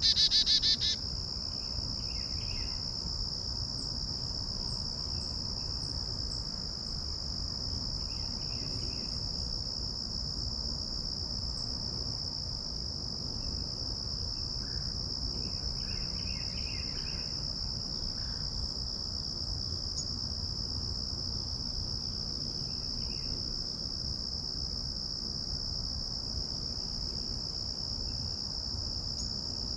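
Insects trilling in one steady, unbroken high-pitched drone, with a loud bird call in the first second and a few faint bird chirps scattered after it.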